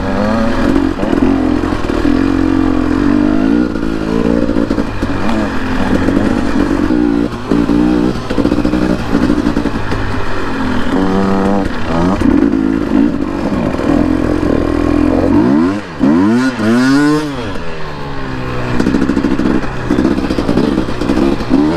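Dirt bike engine under riding load, its pitch rising and falling as the throttle is opened and closed. About two-thirds of the way through it drops off briefly, then swoops back up.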